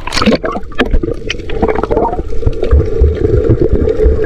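Sea water sloshing and gurgling, muffled, around a camera at or under the surface while snorkelling, with low thumps and scattered clicks. A steady hum sets in about a second and a half in.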